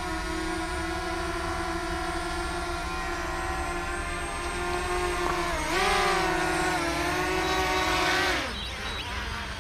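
DJI Mavic Mini quadcopter's propellers whining steadily at a hover. About six seconds in, the whine rises a little and gets louder. Shortly after eight seconds it falls in pitch and dies away as the motors spin down.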